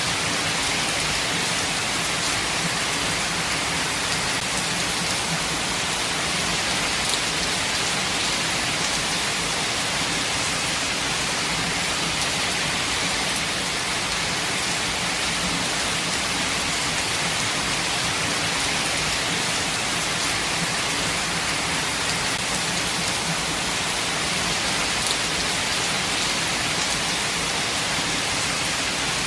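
Steady rain falling, an even hiss of many drops that keeps the same strength throughout.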